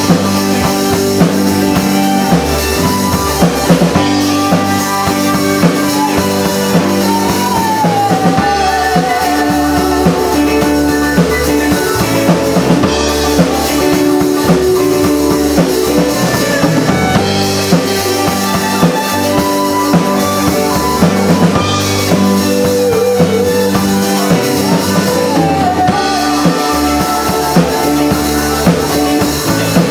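Live rock band playing an instrumental passage: drum kit and guitars, with a lead line that bends its notes.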